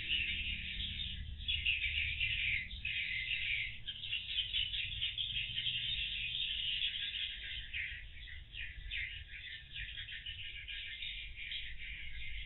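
Swiftlets twittering in a dense, continuous mass of high chirps around their nesting house, typical of a swiftlet colony gathering at roost.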